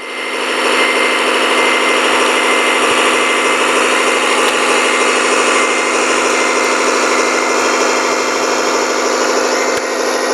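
Radio-controlled model construction machine running steadily, a small motor's hum with steady high tones and no deep bass.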